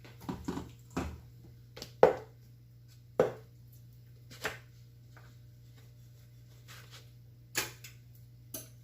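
Kitchen knife knocking on a cutting board while slicing raw chicken breasts open: a string of irregular sharp knocks, the loudest about two seconds in, with a gap of a few seconds in the middle.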